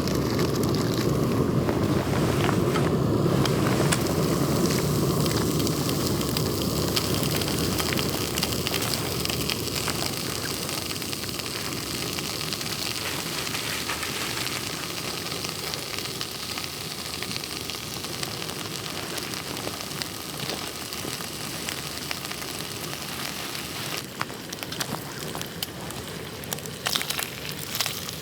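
Campfire crackling with a pan sizzling over it: a steady hiss full of small pops. A heavier low rumble is strong at first and eases off over the first ten seconds or so, and sharper crackles come in near the end.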